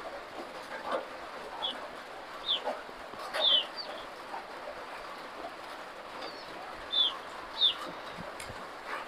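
A bird giving short, high chirps that slide downward, about seven of them spread through, over the soft sounds of someone chewing and eating by hand.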